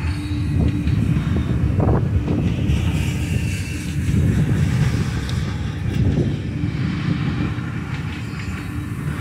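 Double-stack intermodal freight train's container well cars rolling past: a steady low rumble of steel wheels on rail, with a few brief clicks.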